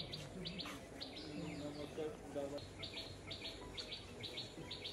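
A bird calling in short, high chirps repeated in quick pairs, with a pause of about a second partway through, over a faint murmur of voices.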